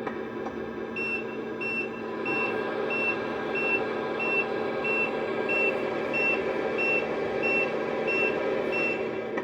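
Reversing alarm of a radio-controlled scale model truck, beeping steadily about one and a half times a second over a low, steady engine-like hum.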